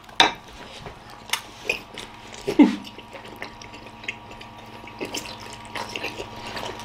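Wet chewing and mouth sounds of people eating whole large steamed momos (dumplings) with stuffed mouths: scattered small smacks and clicks, and one brief muffled falling sound about two and a half seconds in.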